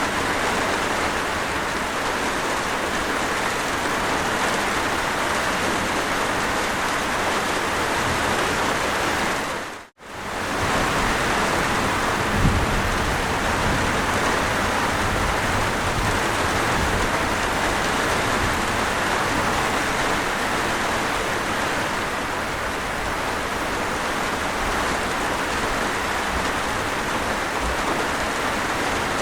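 Steady rain sound effect, an even rushing hiss of falling rain. About a third of the way in it fades briefly to silence and straight back. Shortly after, a low thump and rumble sounds once under the rain.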